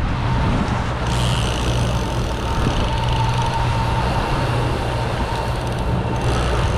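Boat engine running steadily at trolling speed, a low even hum under a hiss of wind and water. A faint thin whine joins in about a second in.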